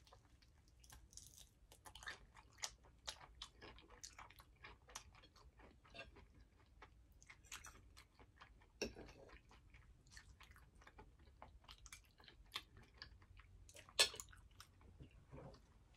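Close-up chewing and biting of crispy fried food, with many faint crackly crunches and mouth clicks. A sharper click stands out about nine seconds in and another, the loudest, near the end.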